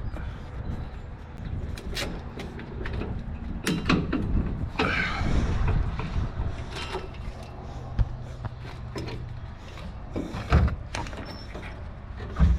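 Scattered sharp metal knocks and clanks of hand tools on a pickup's rear suspension as a shock absorber is worked on, with a short scraping noise about five seconds in.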